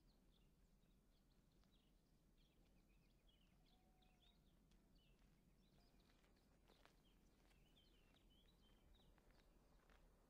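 Faint birds chirping in many short, scattered calls over a low steady hum.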